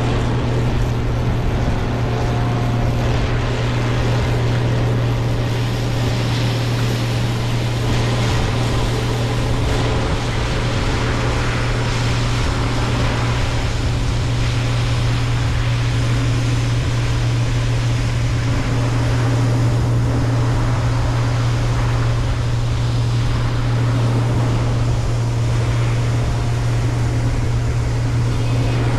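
Heavy diesel harvest machinery running steadily: a constant low engine drone with steady tones above it and a layer of hiss.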